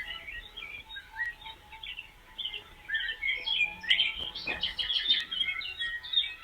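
A chorus of small birds chirping and twittering, many short calls overlapping, busiest in the middle of the stretch.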